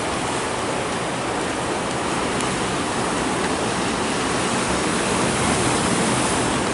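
Steady rushing noise of rain, mixed with surf breaking on a rocky shore.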